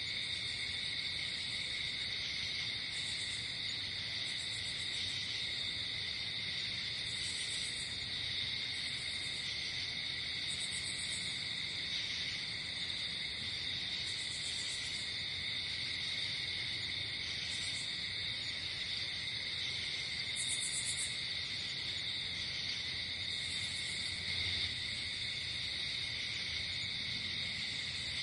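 Night insect chorus: crickets trilling in a steady, high, unbroken drone, with a second, higher insect chirping in short pulsed bursts every second or few.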